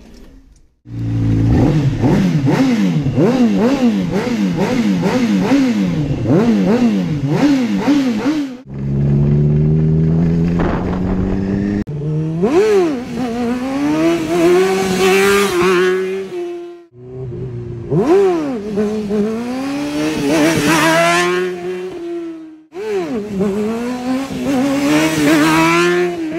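Fuel-injected motorcycle engine running, coming in about a second in: blipped rapidly up and down for several seconds, then idling steadily, then revved in several separate rises and falls.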